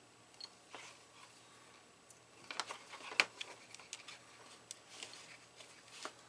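Quiet small clicks and taps from soldering-iron work on a copper strip, with a quick cluster of ticks about two and a half to three and a half seconds in.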